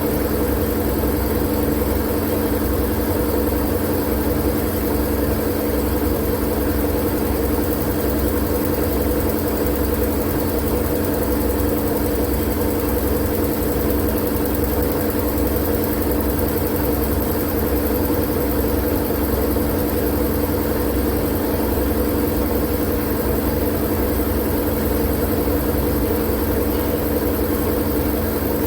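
Steady, unchanging noise with a low hum and rumble under a hiss, played as a continuous white-noise sleep sound.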